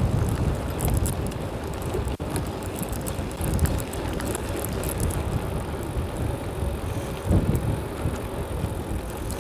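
Strong wind buffeting the microphone on a moving bicycle, over the tyre and road noise of the ride.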